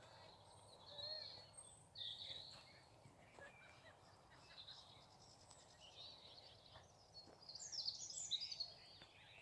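Faint songbirds chirping and warbling, with a quick, louder run of high notes about eight seconds in.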